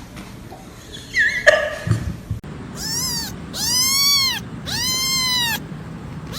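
A cat meowing three times in long, drawn-out calls, each rising and then falling in pitch, after a brief thump about a second and a half in.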